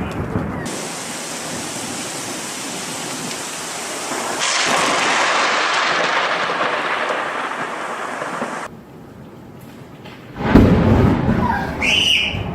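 Heavy rain hissing during a thunderstorm, swelling louder about four seconds in. After a break, a sudden loud thunderclap with a deep rumble about ten seconds in.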